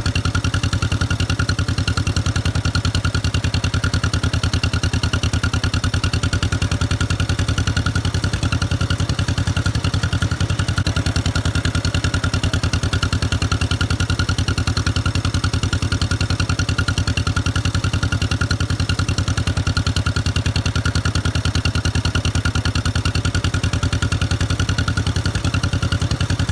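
Tractor engine idling steadily with an even, rapid firing beat.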